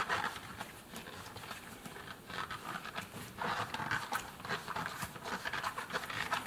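Hands rubbing and working a rubber washing-machine door seal, giving irregular soft scraping and squeaky rubbing sounds with small clicks.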